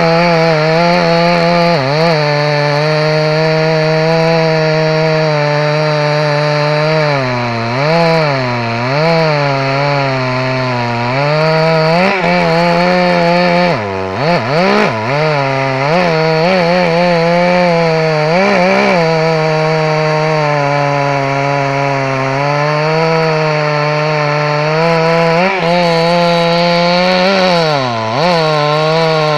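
Two-stroke chainsaw running at high revs while cutting wood, its pitch sagging briefly and recovering several times as it works, most deeply about halfway through and near the end.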